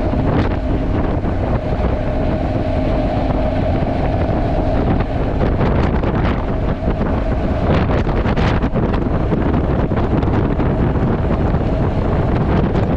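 Wind buffeting the action camera's built-in microphone on a moving motorcycle: a loud, continuous rushing noise with ragged gusts.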